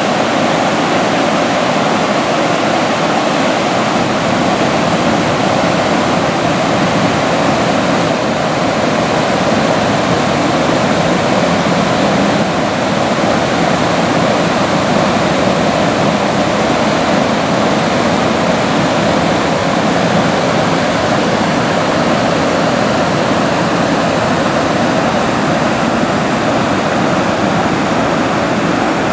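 Fast-flowing floodwater rushing, a loud, steady, unbroken sound of moving water.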